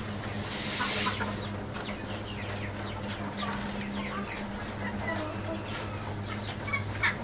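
Chickens clucking among many short bird chirps, over a steady low hum; a brief rustle swells about a second in.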